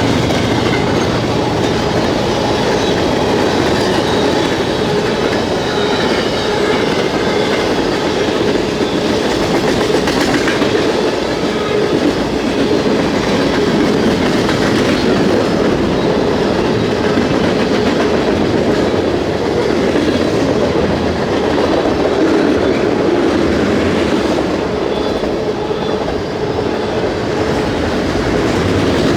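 Freight train cars rolling past at close range: a loud, steady rumble with wheels clattering over the rail joints, and a faint wheel squeal near the start.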